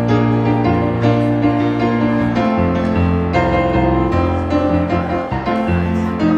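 Instrumental keyboard music: held chords over a bass line that moves to a new note about once a second.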